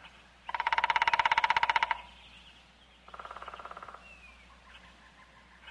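Woodpecker drumming: a rapid, even roll of knocks lasting about a second and a half, then a second, quieter roll a little over a second later.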